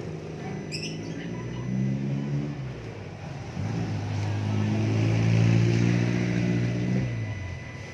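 A motor vehicle engine running at a steady pitch. It breaks off briefly about three seconds in, then comes back louder and fades near the end.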